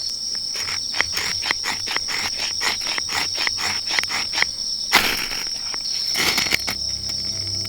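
Insects chirring steadily at a constant high pitch. Through the first half a quick run of small clicks or taps sounds over it, and a couple of short rustling noises come near the end.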